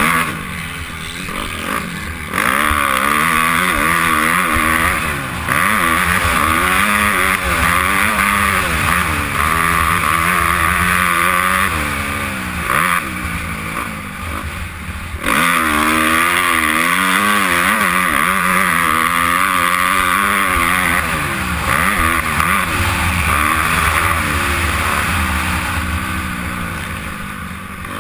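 Honda CRF250R's single-cylinder four-stroke engine, revving up and dropping back again and again as the motocross bike is ridden hard, heard from a helmet-mounted camera. The throttle eases off briefly about a second in, again around halfway, and near the end.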